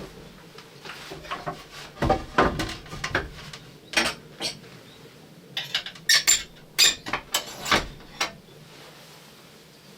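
A run of irregular clinks and knocks of small hard objects being handled close by, like cookware or utensils being set down and moved. They come thickest in the middle, some ringing briefly.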